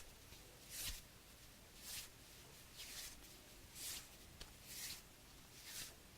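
Hands rubbing close to the microphone: soft, airy swishes at an even pace, about one a second.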